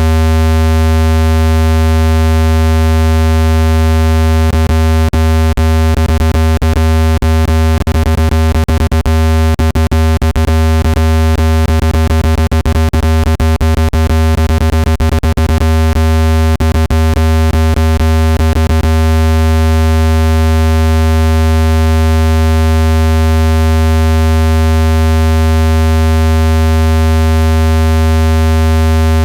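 Synthesized low-pitched speaker-cleaning tone, a loud steady buzz with a ladder of overtones, meant to vibrate dust out of a phone speaker. From about four seconds in to about nineteen seconds in, rapid irregular clicks crackle over the tone.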